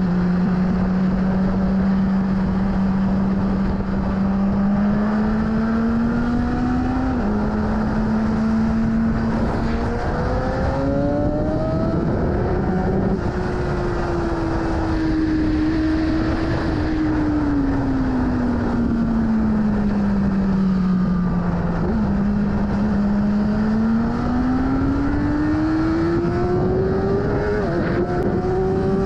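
BMW S1000RR inline-four engine under way, its note climbing through the revs with sharp drops at upshifts about 7 and 10 seconds in. It then falls away as the bike slows and climbs again with another shift near the end, over steady wind rush.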